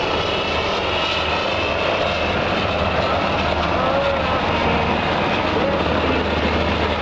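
Military aircraft engines running, a loud, steady drone with no sudden changes.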